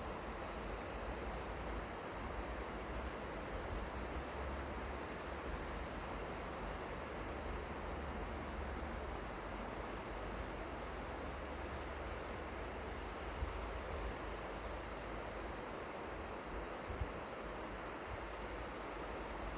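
River water flowing: a steady rushing noise, with low, uneven wind rumble on the microphone.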